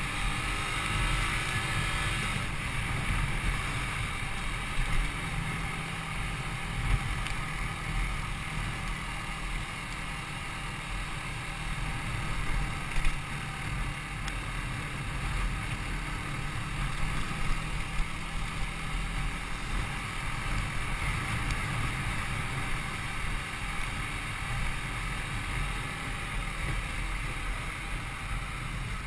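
Yamaha YZF-R125's single-cylinder engine running under way, mixed with wind rushing over the microphone. The engine note rises over the first two seconds, then holds fairly steady.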